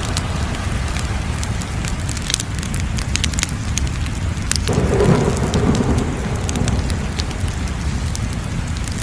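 Wood fire crackling: scattered sharp pops and snaps over a steady low rumble, with a sudden swell of rushing noise about five seconds in that fades over a second or so.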